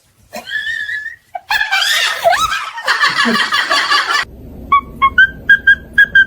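A parrot calling: a short whistled note, then harsh, laugh-like squawks. After an abrupt change it gives a rapid series of short whistled chirps, about four a second.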